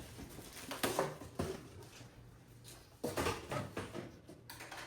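Cardboard box and packing being handled: a few short knocks and rustles about a second in, then a louder cluster of rustling and knocks about three seconds in.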